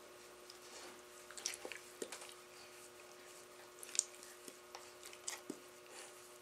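Dogs mouthing and play-biting each other: scattered wet smacking and clicking mouth noises, faint, over a steady low hum.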